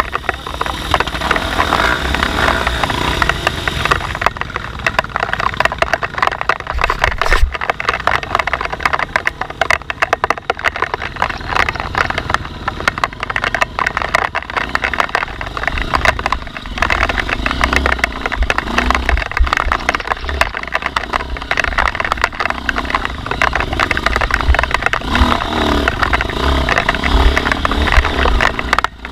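Off-road dirt bike engine running and revving unevenly, with low rumble on the microphone.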